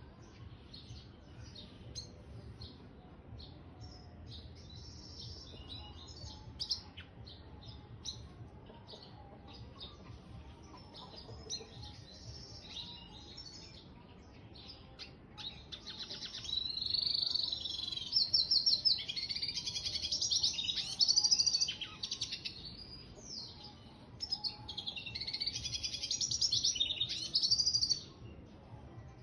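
Red siskin × canary mule (hybrid finch) singing: scattered quiet chirps at first, then a loud, fast, continuous warbling song over the second half, with a brief break, stopping shortly before the end.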